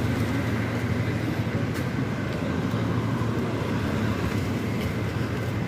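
Wind buffeting the microphone outdoors: a steady, fluttering low rumble with a few faint ticks.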